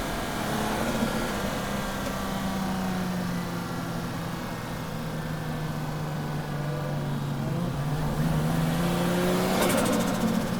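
Toyota JZX drift car's straight-six engine running, its pitch sinking slowly and then climbing again near the end, with a brief burst of noise just before the end; the engine is misfiring.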